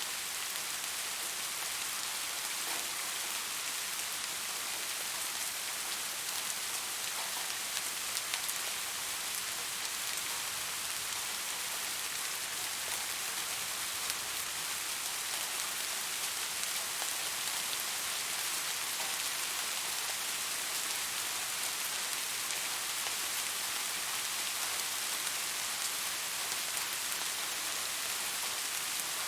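Steady rain falling, an even hiss of many drops with a few individual drops ticking out now and then.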